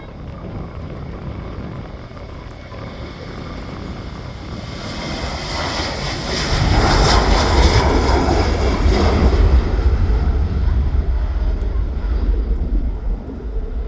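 Jet airliner's engines at takeoff power as it departs and passes the listener: the noise swells over several seconds, is loudest from about seven to ten seconds in with a hiss over a deep rumble, then leaves a heavy low rumble.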